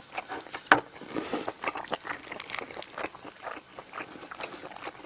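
Close-miked eating sounds: wet chewing and mouth noises of someone eating octopus fried rice, a string of small irregular clicks and smacks, with one sharp click under a second in.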